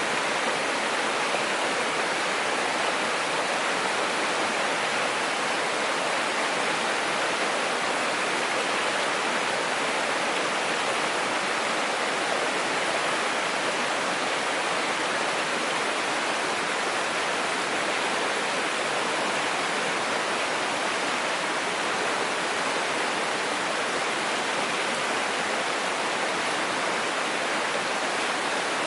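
Mountain stream rushing steadily over rocks, an even unbroken water noise.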